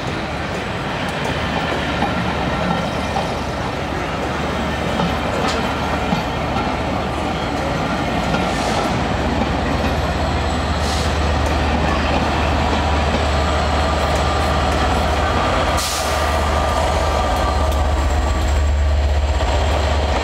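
Belmond British Pullman coaches rolling past at low speed, their wheels running over the rails with a few sharp clicks and squeals. A low drone builds and is strongest near the end.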